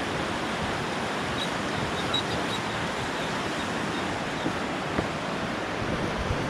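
Steady rushing of flowing water, a stream or river in full flow, as an even hiss with no breaks.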